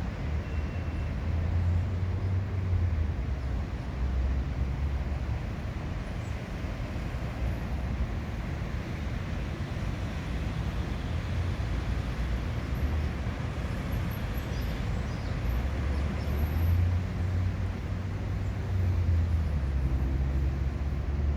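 Steady outdoor background noise: a low rumble that swells and eases, under a constant hiss.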